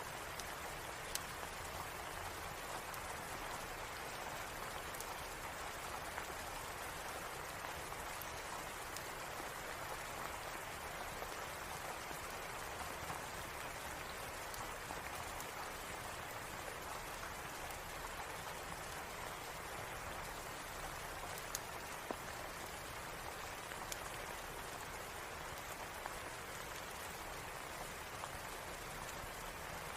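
Steady rain, an even hiss, with a few sharp pops from a crackling fireplace scattered here and there.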